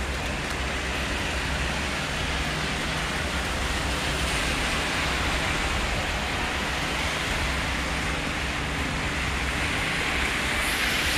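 Heavy rain pouring steadily, with a low rumble of traffic underneath. The hiss swells about four seconds in and again near the end.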